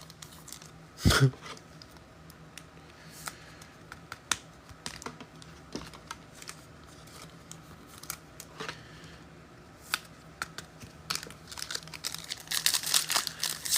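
Trading cards and packs being handled: scattered small clicks and taps, with one thump about a second in, then crinkling of a foil card pack wrapper near the end.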